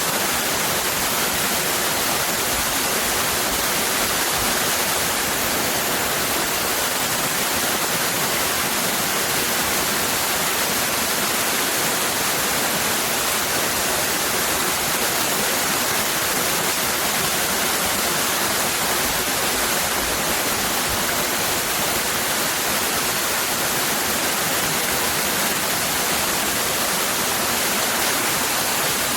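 Waterfall cascading, a steady, even rush of falling water with no breaks.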